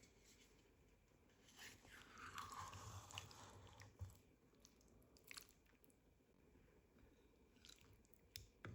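Faint crunchy scraping for a couple of seconds, then a few light clicks and knocks, typical of food being handled or prepared.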